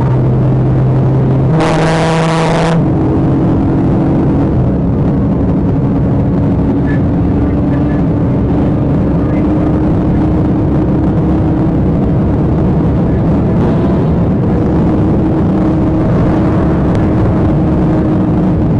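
Police car's engine and road noise during a pursuit, loud and steady. About two seconds in, a brief loud tone with many overtones sounds for about a second.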